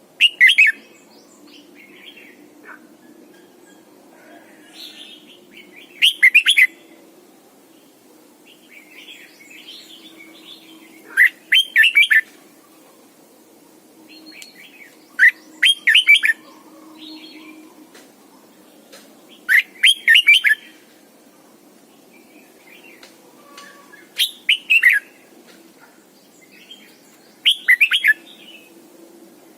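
Red-whiskered bulbul singing: short, loud, warbling phrases about every four seconds, seven in all, with softer chirps in between.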